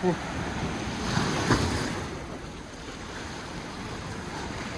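Sea surf washing on the shore with wind buffeting the microphone, and a short sharp knock about a second and a half in.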